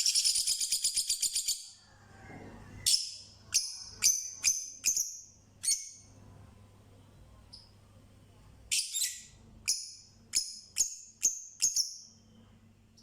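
Birds calling: a fast, high trill in the first second and a half, then two runs of short, sharp calls about half a second apart, six or so in the middle and about eight near the end.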